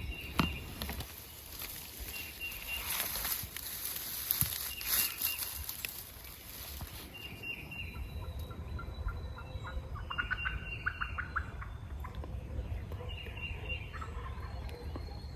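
Wild turkey gobble: a rapid, rattling call about ten seconds in, over a background of short repeated high bird notes.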